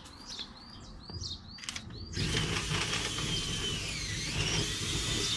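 A bird calling in a quick run of short chirps, then from about two seconds in a louder rushing, rumbling noise takes over.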